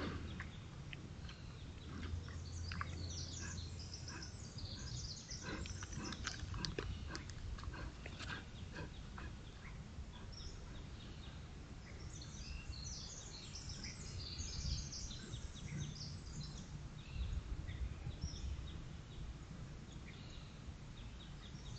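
Birds chirping in short, scattered calls over a steady low rumble, with occasional brief clicks.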